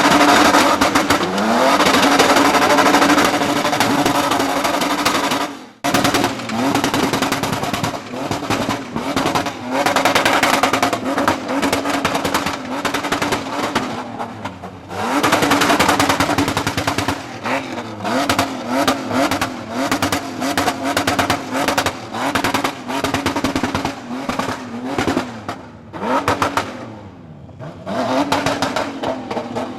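A car engine revving hard, held at high revs and stuttering rapidly on and off, with several swoops in pitch up and down. The sound cuts out briefly about six seconds in and dips again near the end.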